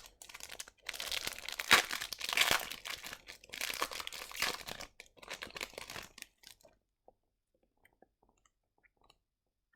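Plastic wrapper of a trading card pack being torn open and crinkled for about six seconds, then a few faint ticks from cards being handled.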